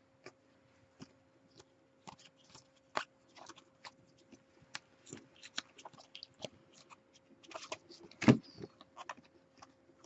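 Trading cards being handled and sorted on a table: scattered small clicks and rustles, with a sharper snap about eight seconds in, over a faint steady hum.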